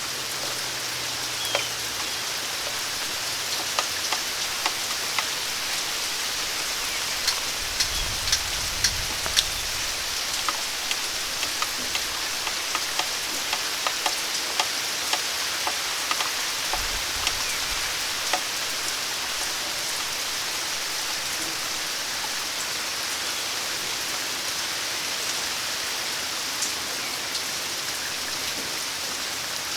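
Steady rain falling, with frequent sharp drips landing close by, thickest in the first half and thinning out after about eighteen seconds.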